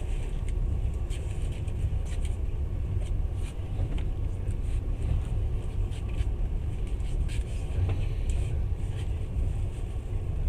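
Passenger train running at speed, heard from inside the carriage: a steady low rumble of the wheels on the rails. Short high clicks and creaks come irregularly throughout.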